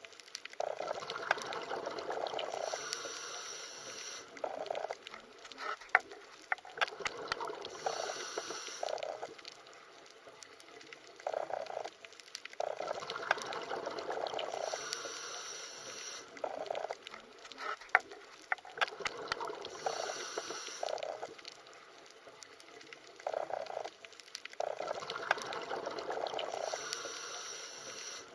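Underwater water ambience: bubbling and gurgling surges with scattered sharp clicks, repeating in the same cycle about every twelve seconds.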